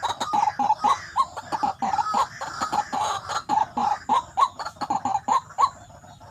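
White-breasted waterhen calling: a fast run of short croaking notes, about five a second, that stops shortly before the end.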